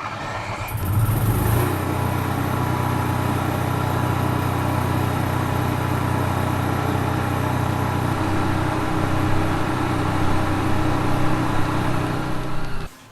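A motor vehicle engine running steadily at an even pitch, cut off abruptly near the end.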